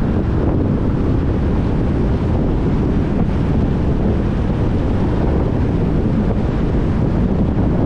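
Steady road and wind noise from a vehicle on the move, a low even rumble of tyres and engine with no changes.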